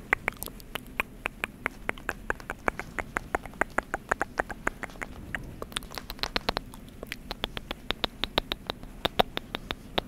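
Rapid fingernail tapping on a book, a run of sharp clicks about four to five a second with brief uneven gaps.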